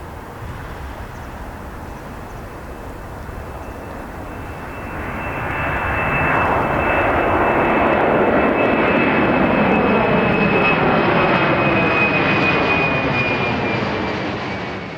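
Jet airliner passing low overhead. Its engine noise swells to loud about five seconds in and holds, with a high turbine whine that slowly drops in pitch as the aircraft goes by.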